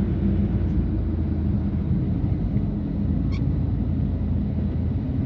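BMW F80 M3's twin-turbo straight-six and straight-piped exhaust running steadily while cruising, a low drone mixed with tyre and road rumble on a snow-covered highway.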